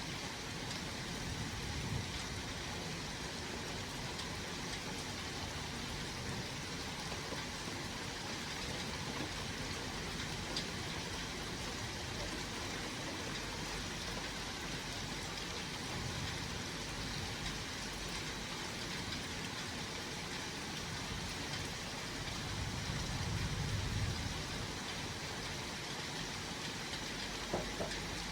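Steady rain during a thunderstorm, a continuous hiss picked up by an old phone's microphone. A low rumble swells briefly about three-quarters of the way through.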